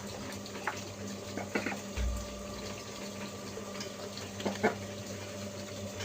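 Pet parrot making a few short, sharp sounds, the loudest about four and a half seconds in, with a soft low thump near two seconds, over a steady background hum.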